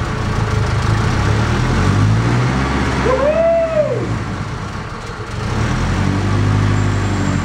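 Rebuilt Honda K20A2 four-cylinder engine running steadily on its first startup after the build. About three seconds in there is a short tone that rises and falls over the engine.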